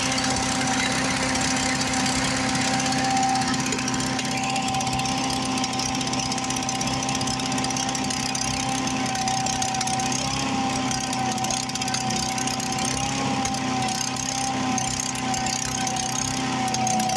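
Predator small gasoline engine on a wood chipper running steadily at a constant speed, its pitch wavering slightly about ten seconds in.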